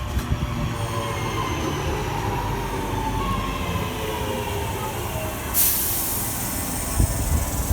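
Train running past with a steady low rumble and faint pitched tones that slowly fall. A loud hiss starts abruptly about five and a half seconds in, and a few low thumps come near the end.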